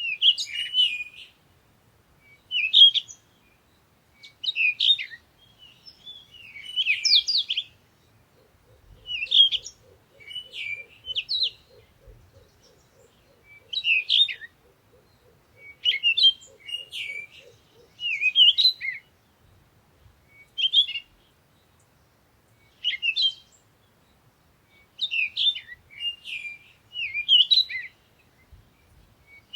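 Songbird singing short, quick chirping phrases over and over, one every second or two. For about ten seconds in the middle a faint low rapid trill runs beneath it.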